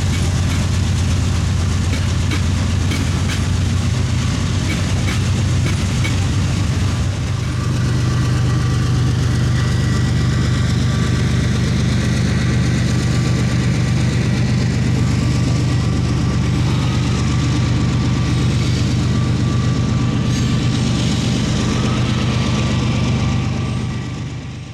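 Union Pacific rock train passing: diesel locomotive engines run with a steady low drone, and wheels click over rail joints in the first few seconds. The engine note steps up in pitch about seven seconds in, and the sound fades out at the very end.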